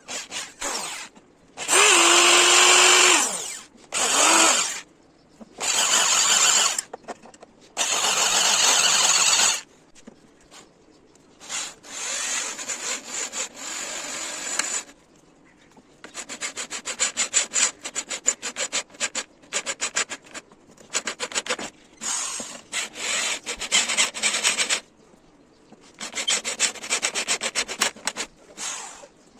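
Workshop tool noise on the vice parts being made: several short bursts of a power tool in the first ten seconds, then long spells of rapid rasping as a surface is worked.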